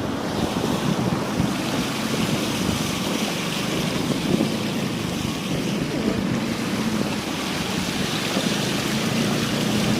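Steady rush of floodwater splashing and sloshing as a vehicle moves through the flooded street, with a low engine hum underneath and wind buffeting the microphone.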